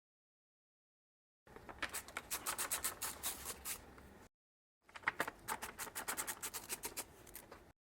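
Hand tools working on van parts: rapid clicking and scraping in two short bursts, each cut off abruptly by dead silence.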